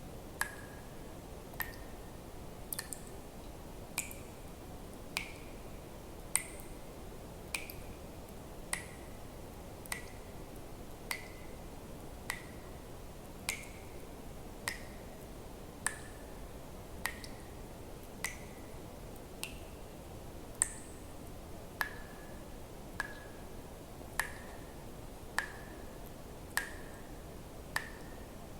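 Water drops falling one at a time into water at a steady pace of about one drop a second, each a sharp plink with a short ping that drops in pitch, over a faint steady hiss.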